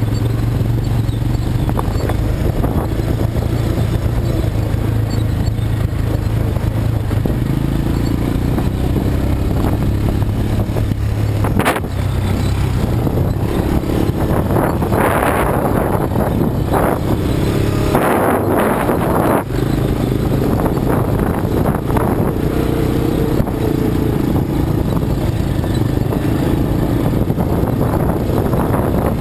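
ATV (quad bike) engine running steadily while riding off-road, its note lower for the first twelve seconds or so, then higher. Two spells of rushing noise come through over the engine in the middle.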